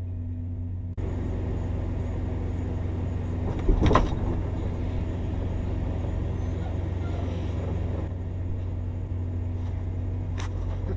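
Truck engine running steadily, heard from inside the cab, with one brief loud noise about four seconds in.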